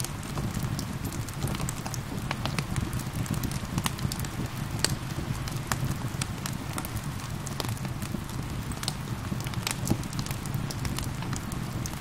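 Wood fire crackling, with scattered sharp pops over a steady low rumble, and gentle rain falling.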